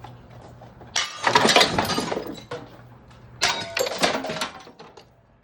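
Ceiling fan's glass light fixture being smashed: two bouts of breaking, shattering glass, one about a second in and another about three and a half seconds in.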